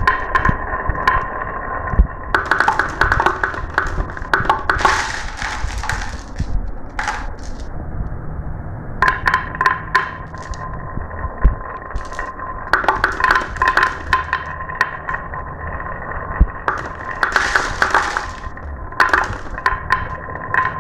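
Marbles rolling down a marble run track, with a steady stream of quick clicks and clacks. Louder bursts of clattering come every few seconds.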